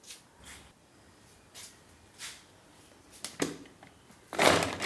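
Grapes being chopped in a hand-operated vegetable chopper: a string of short noisy strokes, faint at first and strongest near the end.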